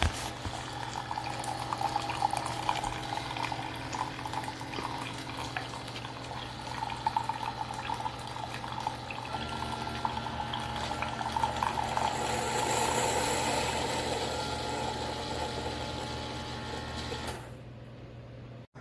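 Keurig K-Mini single-serve pod coffee maker brewing: its pump hums steadily while hot water gurgles and sputters through the pod and streams into the cup. The sound stops abruptly near the end.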